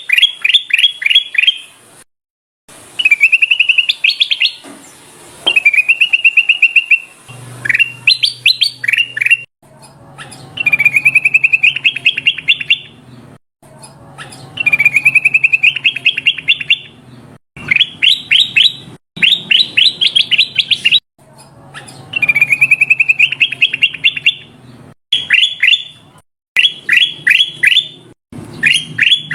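Kutilang emas bulbul singing loud, repeated phrases of rapid clear notes. Each phrase is one to three seconds long, some notes held and wavering, others a quick run of rising notes, with short pauses between phrases.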